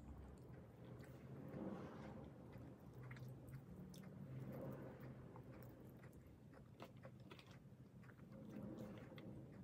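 Faint chewing and mouth sounds of someone eating rice and pork adobo with the fingers, with scattered small clicks and smacks.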